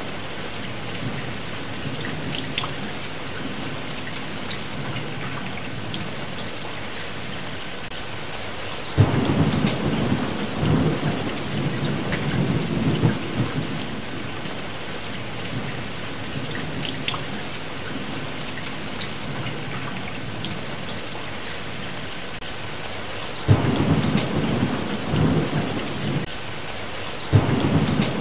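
Steady rain with thunder. One roll of thunder breaks sharply about a third of the way in and rumbles for several seconds; another comes near the end, followed by a short one just before the end.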